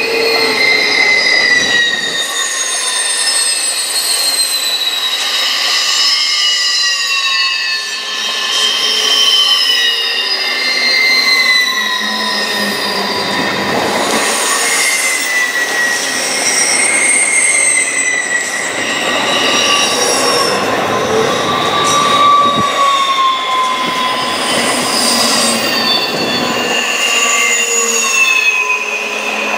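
Double-stack intermodal freight train rolling past close by, its wheels squealing continuously in several high, wavering tones that slide up and down over the rumble of the well cars.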